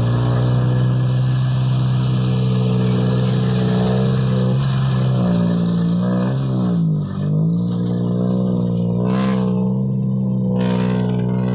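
Dump truck's engine running under load, its pitch dipping sharply about two-thirds in and then rising again, with two short scraping or knocking noises near the end.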